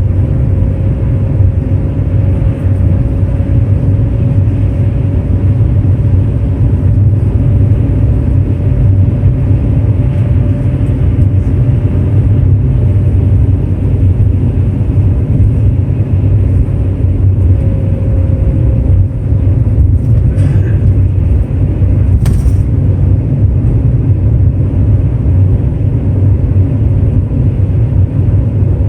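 Steady low rumble of a car on the move, with a faint steady whine above it and a single sharp click late on.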